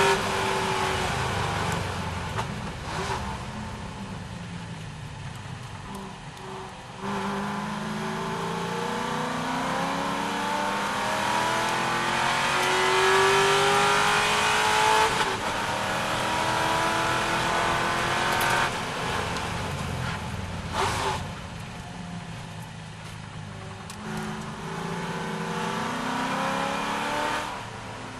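C6 Corvette's V8 engine under race load. The engine note climbs through the revs again and again, breaking off at gear changes, with a few brief lifts off the throttle.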